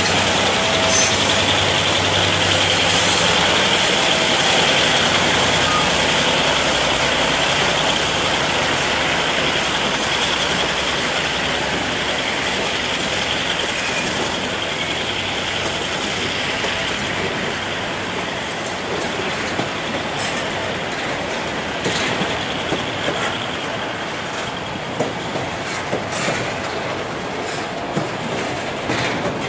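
Freight train wagons rolling past close by: a steady rumble of wheels on rail. In the first few seconds the hum of the diesel locomotive fades away. Through the second half, sharp clicks and clacks of wheels crossing rail joints come more and more often.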